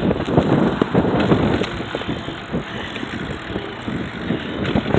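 Wind buffeting an unprotected microphone: a rough rushing noise with uneven gusts.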